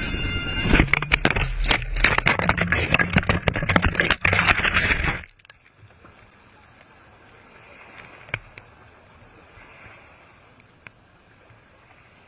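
Helicopter crash heard from inside the cabin: loud rattling and crunching with many sharp knocks for about four seconds, then a sudden cut to faint background noise with a couple of clicks.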